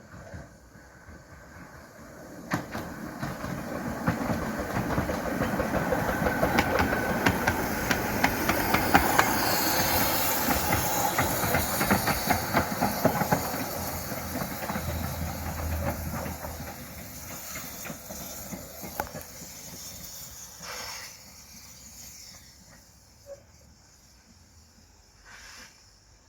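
A 15-inch gauge miniature steam train passing by, with steam hiss and the clatter of wheels on the rails. It builds up over a few seconds, is loudest near the middle, and fades away again.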